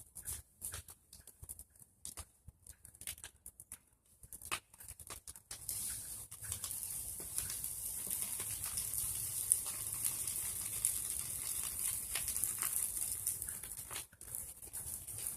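Bonfire of pruned tree branches crackling, with sharp irregular pops. About six seconds in, a steady high hiss joins the crackling.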